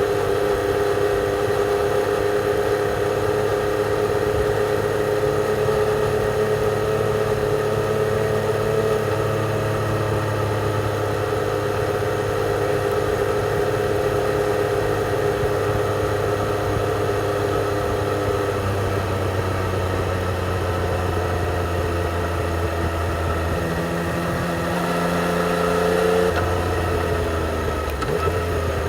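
Yamaha XSR 900's inline three-cylinder engine through its stock exhaust, running at steady road-riding revs. The pitch eases down about two-thirds of the way through, rises briefly, then drops sharply near the end.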